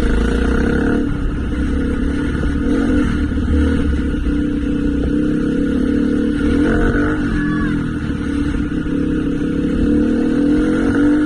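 Motorcycle engine running steadily under way, its pitch shifting slightly about two-thirds of the way through.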